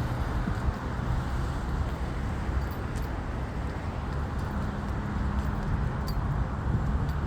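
Steady jet engine noise from a Boeing 737 MAX 8's CFM LEAP-1B turbofans: an even rush with a faint low hum under it.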